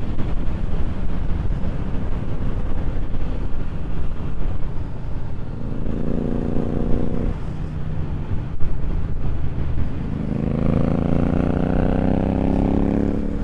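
KTM Duke 390 motorcycle being ridden, with heavy wind rumble on the microphone. Its engine note rises as it accelerates, briefly about six seconds in and again for longer from about ten seconds in.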